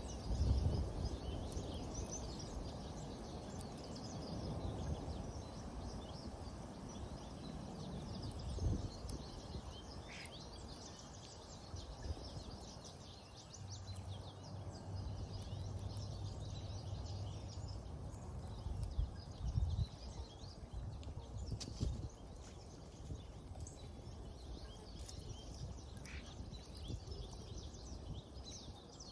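Outdoor birdsong: many small birds chirping throughout over a low, uneven rumble, with a steady low hum for a few seconds in the middle.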